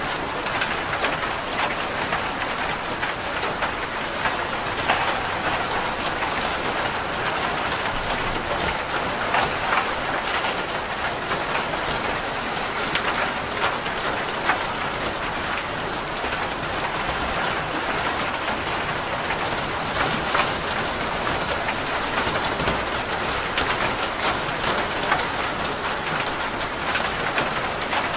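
Steady rain falling on a roof: an even hiss with many sharp ticks of individual drops striking the surface.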